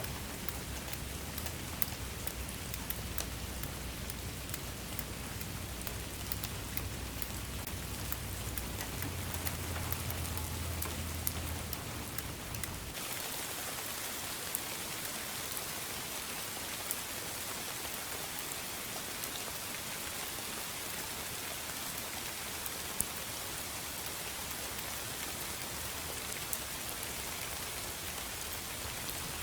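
Steady rain falling, an even hiss with many small drop taps. A low rumble under it stops abruptly a little before halfway, leaving the rain slightly brighter.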